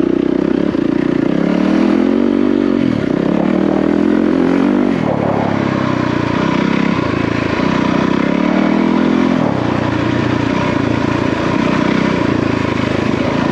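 Yamaha WR450F single-cylinder four-stroke dirt bike engine under way on a trail climb, its revs rising and falling repeatedly as the throttle is worked.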